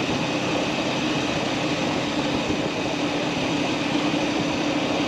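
Motorcycle engine running at a steady speed while riding, a constant hum under an even rushing noise.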